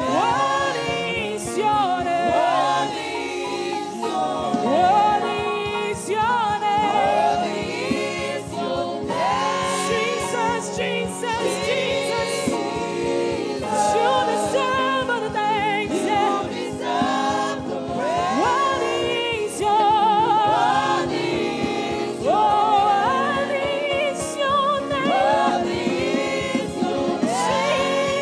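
Live gospel worship music: a choir and congregation singing with a steady beat, with a lead voice sliding and ornamenting over sustained chords.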